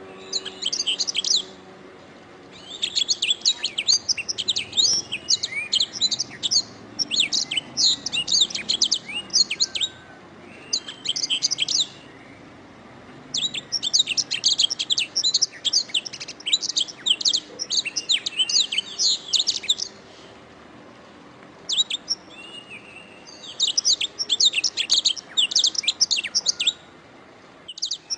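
Domestic canary singing: long, rapid, high trilled phrases, each a few seconds long, broken by short pauses of about a second.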